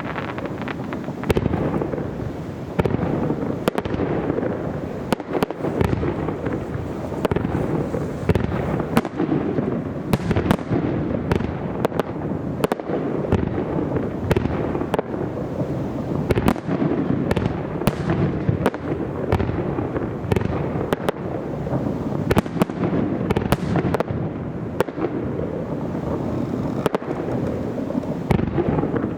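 Aerial fireworks display: a dense, unbroken barrage of shell bursts, with many sharp bangs and crackles over a continuous rumble.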